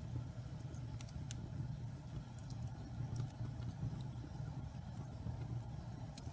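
Wood fire burning in a fireplace: a steady low rumble of flames with scattered sharp crackles and pops, two of them stronger about a second in.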